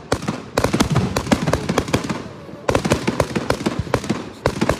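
Fireworks crackling: rapid sharp cracks in two dense runs of about two seconds each, with a short lull between.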